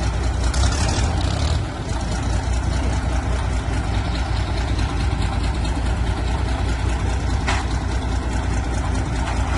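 Heavy tractor engine running steadily, with a short hiss about a second in and a single knock about three-quarters through.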